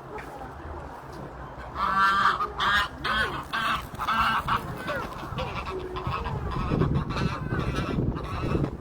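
Waterfowl calling loudly, a rapid run of repeated honking calls starting about two seconds in and continuing on.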